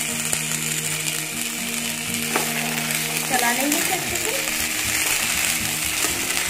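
Boiled black chickpeas sizzling in hot oil in a kadhai, a steady hiss. About two-thirds of the way through, a wooden spatula starts stirring and scraping them around the pan.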